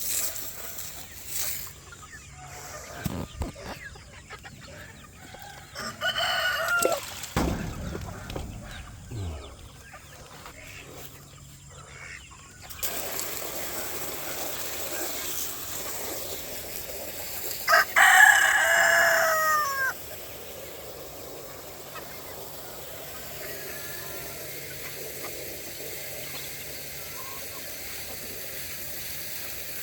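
Rooster crowing twice, a shorter crow about six seconds in and a louder crow around eighteen seconds in, each ending in a falling tail. A steady hiss runs underneath from about halfway through.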